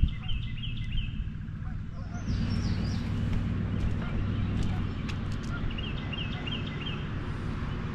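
A bird singing a quick series of repeated chirping notes, near the start and again about six seconds in, over a steady low rumble.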